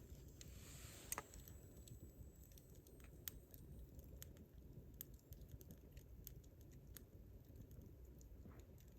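Wood fire crackling faintly: irregular sharp snaps and pops, the loudest about a second in, over a low rumble.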